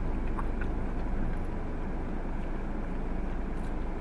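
Steady low rumble of road and engine noise inside a car's cabin, with a couple of faint ticks near the start.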